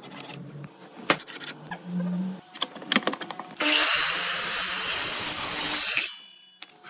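A few sharp knocks and clicks of wood and tools being handled, then a power tool cutting wood loudly for about two and a half seconds before stopping abruptly.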